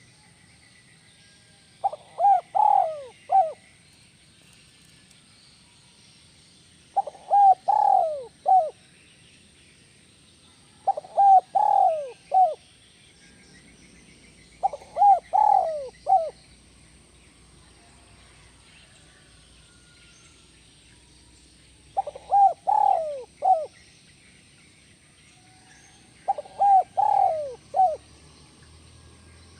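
Spotted dove (tekukur) cooing: six call phrases, each a quick run of three or four coos that fall in pitch, repeated every four to six seconds.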